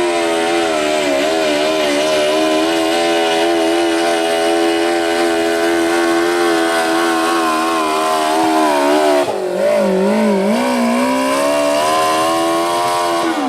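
Modified lawn tractor's engine running hard at high revs under load as it pulls the sled, its pitch wavering. About 9 seconds in the revs sag and wobble, then climb back, and they begin to fall away at the very end as the run finishes.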